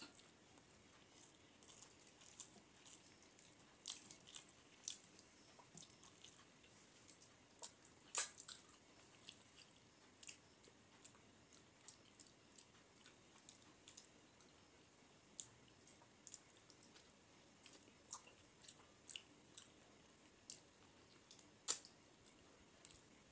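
Faint, close-miked wet chewing and mouth smacking of a man eating rice mixed with fish curry by hand. It comes as an irregular run of small sharp mouth clicks, the loudest about eight seconds in.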